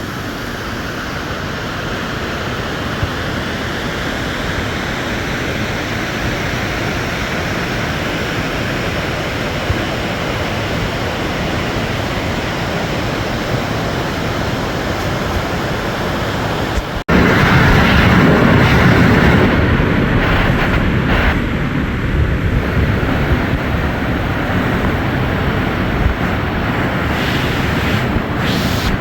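Waterfall rushing: a loud, steady wash of falling water that swells slowly. It cuts off abruptly about 17 seconds in and comes back louder and fuller.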